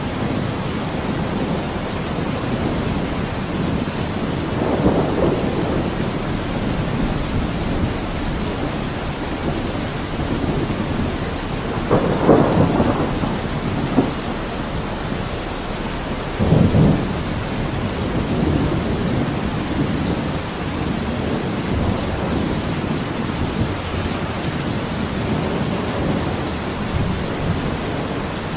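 Thunderstorm: steady heavy rain with rumbles of thunder swelling up about five seconds in, around twelve seconds in, and briefly around sixteen seconds in.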